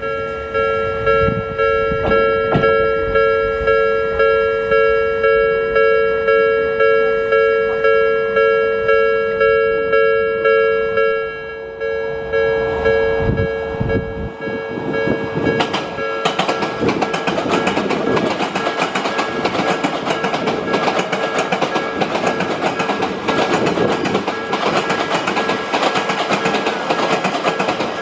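Japanese level-crossing alarm bell ringing in a steady pulsing rhythm over the low rumble and occasional rail-joint knocks of a train. From about eleven seconds in, an Odakyu Romancecar MSE passes straight through without stopping, its wheels clattering over the rail joints in a dense rushing din that drowns the bell.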